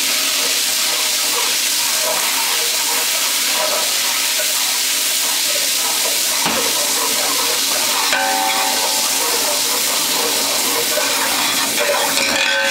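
Oil, garlic-ginger paste and yogurt sizzling steadily as they fry in a large aluminium pot, stirred continuously. The paste is being fried to cook out its raw taste.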